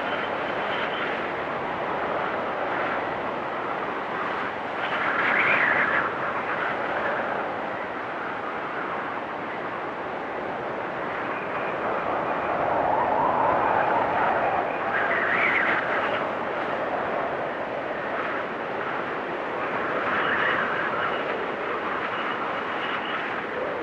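Storm wind blowing in a steady rush, with gusts that swell into a whistle several times, the loudest about 5 and 15 seconds in.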